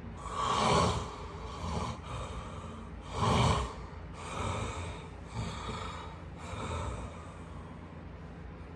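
A person's breathy snorts or puffs of breath, about six in a row, with the first and third the loudest.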